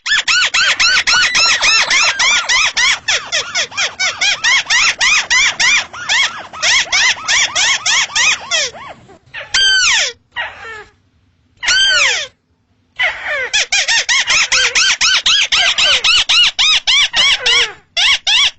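Paddy-field crake (burung tikusan) calling: a long, rapid series of short falling notes, about five or six a second, that breaks off into a few separate calls midway before the run resumes.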